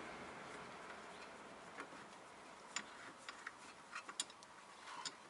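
Faint, scattered light clicks and ticks of hand tools and metal brake parts being handled, about a dozen irregular clicks, over a faint hiss that fades in the first second.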